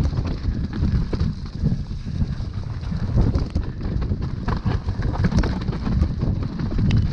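Wind buffeting the microphone as a downhill mountain bike descends rough trail at speed, with a steady low rumble and many short knocks and clatters from the bike jolting over the ground.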